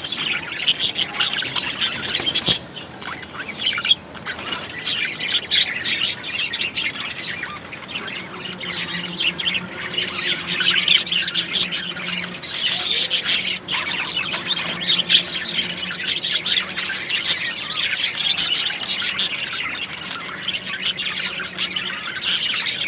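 Budgerigars chattering continuously, a dense mix of warbling chirps and short squawks from several birds.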